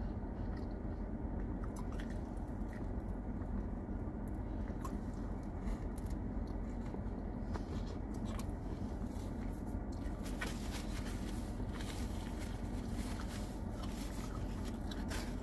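Close-up chewing and biting into a soft sub sandwich, with wet mouth clicks that come more often in the second half. A steady low hum runs underneath, the car's air conditioning.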